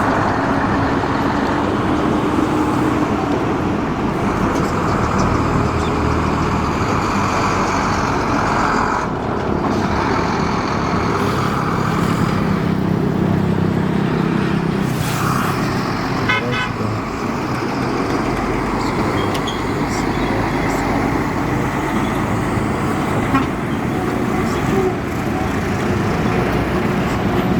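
Road traffic noise: vehicle engines running steadily with a horn toot.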